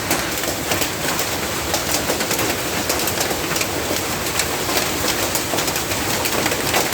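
Heavy hailstorm: a dense, continuous clatter of many hailstones striking surfaces, mixed with the hiss of heavy rain.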